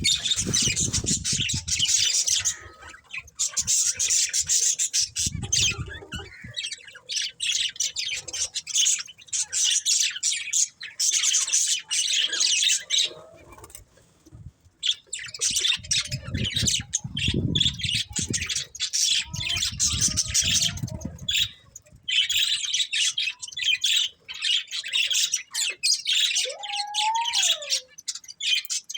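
Budgerigars chattering in rapid bouts of scratchy chirps and squawks, broken by short pauses, with a clear whistle that rises and falls near the end. Low rumbling thuds come in at a few points.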